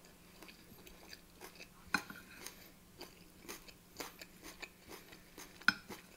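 Close-mic chewing of a mouthful of rice and beef mince with crunchy vegetable pieces, a run of small wet clicks and smacks. A wooden spoon scrapes and knocks against the plate, with the two loudest clicks about two seconds in and near the end.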